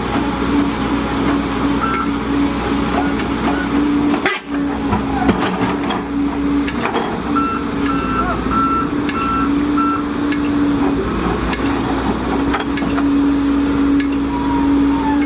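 Volvo EC210DL excavator's diesel engine running steadily with a constant low hum and scattered knocks. About halfway through, an alarm gives a short run of five or six high beeps.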